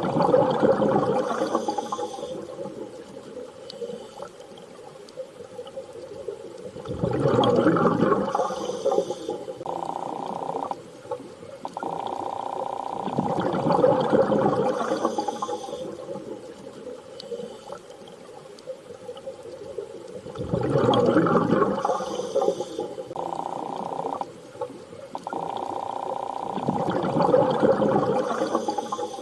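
Underwater ambience: a steady whale-like tone alternating with a swelling wash of water, the cycle repeating about every six to seven seconds.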